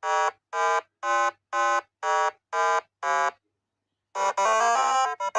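8-bit style electronic beeps: seven short buzzy tones about two a second, each at a different pitch like a simple tune. About four seconds in, a quicker, busier run of chiptune notes starts.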